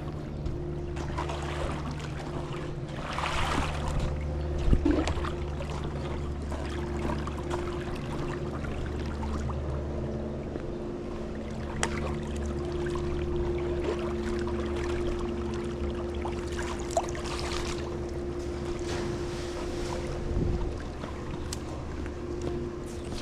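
Pool skimmer net swishing and splashing through the water in several strokes, with a few light knocks of the pole. A steady motor hum runs underneath.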